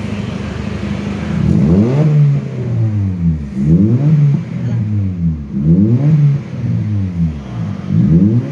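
Honda Mobilio's four-cylinder engine running through an aftermarket racing exhaust: idling steadily, then blipped four times about two seconds apart, each rev rising and falling back to idle.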